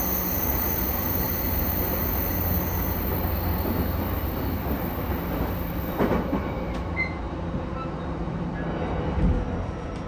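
Interior running noise of a JR E233-1000 series electric train: a steady low rumble of wheels on rail with some wheel squeal, easing off as it goes, and a high whine that fades out a few seconds in. A few light clicks come about six seconds in and a dull thud about nine seconds in.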